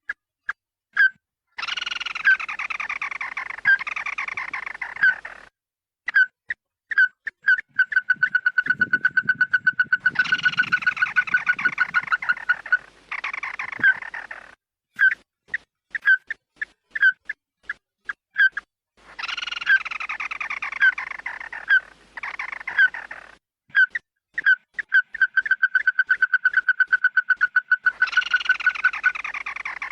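Recorded bird calls played for luring. Sharp single notes and fast trills of clipped notes on one pitch alternate with harsh, falling calls a couple of seconds long. The sequence loops, starting over about 17 seconds later.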